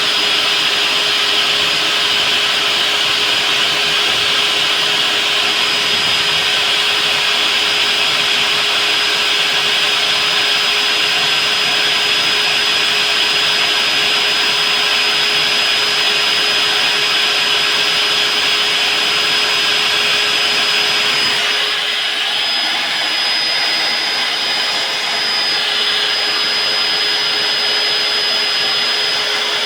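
Electric core-cutting drill running steadily while boring a four-inch hole through reinforced concrete, a continuous motor whine with grinding noise. The sound shifts slightly, a little less hiss, about 21 seconds in.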